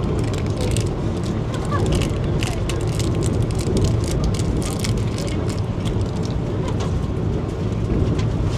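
Cabin noise of a moving Vande Bharat Express electric train: a steady low rumble with frequent small rattles and clicks.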